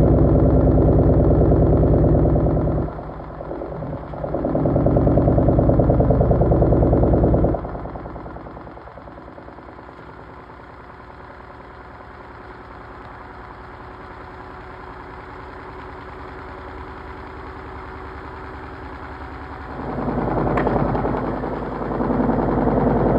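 Washing machine motor turning the drum in loud stretches of a few seconds, with a short break about three seconds in, then running much quieter from about eight seconds in until it picks up again near the end.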